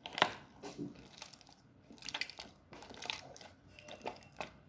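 Homemade glue slime squelching and crackling as it is squeezed and kneaded by hand: a scatter of short, quiet wet pops and crackles. The slime has gone a little stiff.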